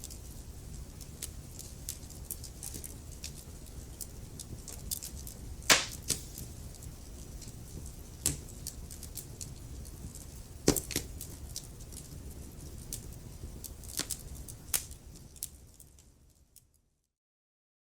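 Wood fire crackling: a low steady rumble of flames under frequent sharp crackles and pops, with two louder pops about a third and two-thirds of the way through. The fire sound fades out to complete silence near the end.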